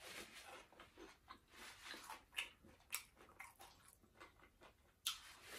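Quiet close-up chewing of a fried vegetable wonton: soft irregular mouth clicks and crackles, with one sharper click about five seconds in.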